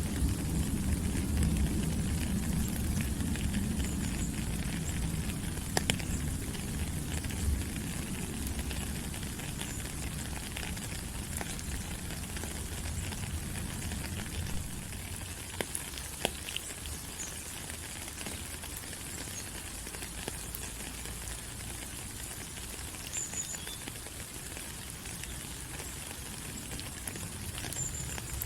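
Steady rain falling on rainforest foliage, a dense even hiss with scattered sharp drip ticks. A low rumble sits under it for the first several seconds and then fades away.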